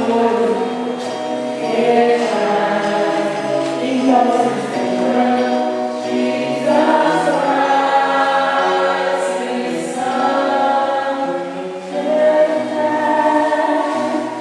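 A church choir singing a hymn together, the voices holding long notes and moving from note to note.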